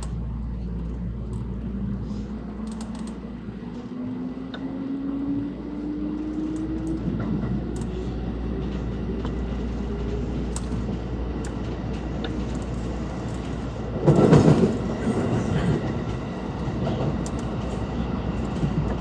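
Interior running sound of a JR West 223 series electric multiple unit: a steady rumble with the traction motor whine rising slowly in pitch as the train gathers speed. About fourteen seconds in there is a short, loud rush of noise.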